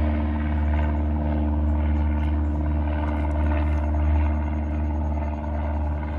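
A vehicle engine idling: a steady low hum that holds the same pitch throughout, with a faint regular pulsing.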